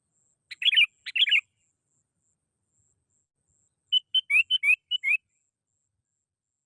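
Sooty-headed bulbul (kutilang) singing: two quick bubbly phrases about half a second in, then after a pause a run of about six short rising whistled notes.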